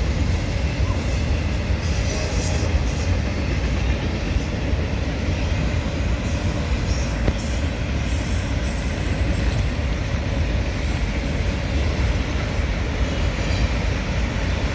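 Norfolk Southern autorack freight train rolling past, a steady rumble of wheels on rail with scattered bursts of higher clatter and squeal.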